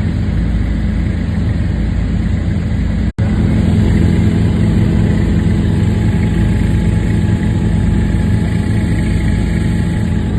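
Helicopter engine and rotor noise, a loud steady drone that breaks off for an instant about three seconds in.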